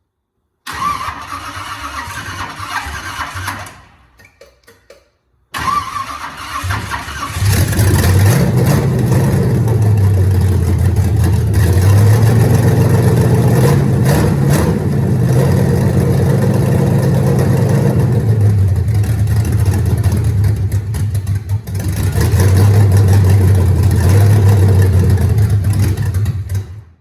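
Freshly rebuilt 305 small-block Chevy V8 being started for the first time: the starter cranks for a few seconds without a start, then cranks again and the engine catches about seven seconds in. It runs loudly with its revs rising and falling, with no exhaust system fitted, and shuts off near the end.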